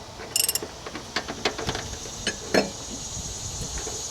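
A ratchet wrench clicking in a short quick burst, followed by a few scattered metallic clicks and knocks of tools on the mower deck, the loudest about two and a half seconds in. Crickets trill steadily in the background.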